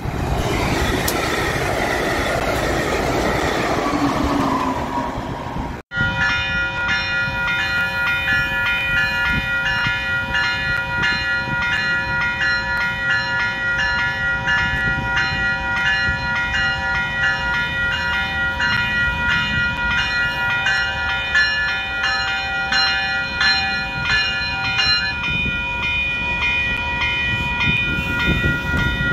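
A passenger train approaching and passing, a rush of wheel and engine noise falling in pitch. After a sudden cut, a warning bell rings steadily at about two strikes a second over the low rumble of a bilevel commuter train rolling by.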